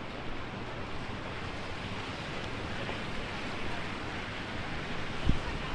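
Heavy rain and gusty wind: a steady rushing hiss, with a single low thump near the end.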